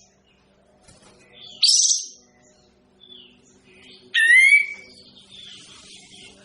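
A caged kapas tembak songbird calling: a short, harsh, buzzy call about one and a half seconds in, then a louder call that slides down in pitch and levels off, about four seconds in. A faint steady low hum runs underneath.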